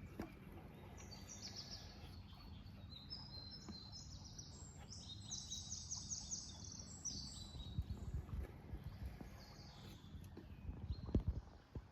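Wild birds chirping and singing in quick runs of repeated high notes over a low outdoor rumble, with a few dull knocks near the end.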